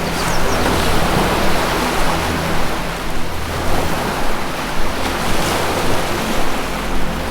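Ocean surf washing in slow swells, layered over a soft music drone of held low notes that shift every few seconds.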